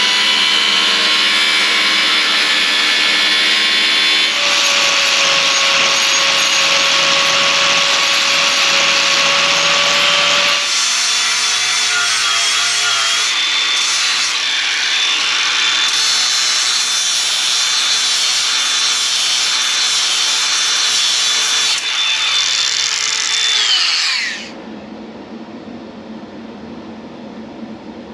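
Handheld power tool working steel, most likely an angle grinder cutting the cross-member stock, running loud for about 24 seconds with a motor whine that shifts in pitch a few times under load. Near the end it is released and the whine falls as it winds down, leaving a quieter steady hum.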